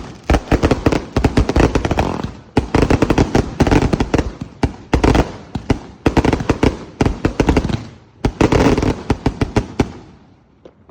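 A 2-inch, 49-shot firework cake firing: rapid bangs packed into four dense flurries with brief gaps between them, which die away about ten seconds in.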